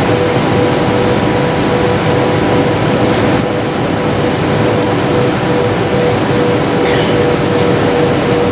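Steady cabin noise of a jet airliner in flight: the rush of engines and airflow, with a steady hum running under it.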